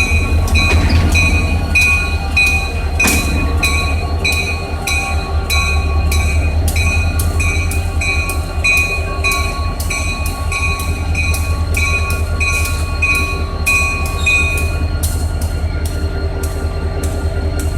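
Locomotive bell ringing in steady, evenly spaced strokes over the low rumble of the running train; the bell stops about fifteen seconds in.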